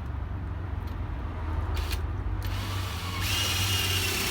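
Makita drill with a 22 mm spade bit boring into a wooden log: the motor runs steadily, then about three seconds in the bit bites into the wood and the sound grows louder and brighter, with a high whine.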